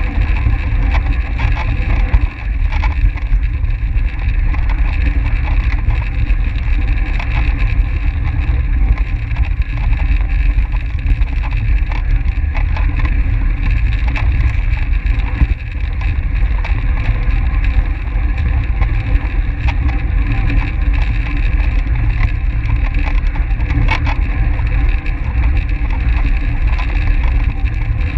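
Steady, loud wind rumble on the microphone of a camera riding along on a track bike at race speed.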